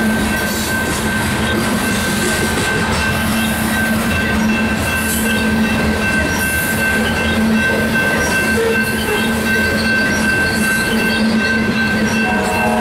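Loaded coal hopper cars of a long freight train rolling past: the steady rumble and clatter of steel wheels on rail, with a constant high-pitched wheel squeal over it.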